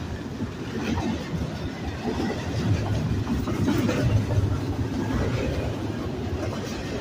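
Double-stack container well cars of an intermodal freight train rolling past, a continuous loud rumble of steel wheels on the rails.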